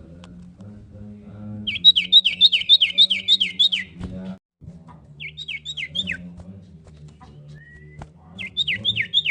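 Common iora (cipoh) calling in runs of quick, down-slurred chirps: about eight at roughly four a second, a shorter run of four about a second and a half later, and another run starting near the end. A low steady hum runs underneath.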